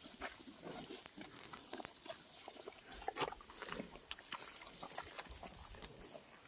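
Water buffaloes making short, irregular sounds, faint and scattered.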